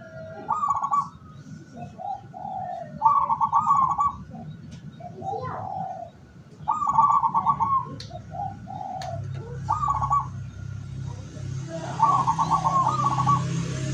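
Zebra doves (perkutut) cooing: a phrase about every two to three seconds, each a lower coo running into a rapid, stuttering higher coo. A steady low hum with hiss rises about nine seconds in.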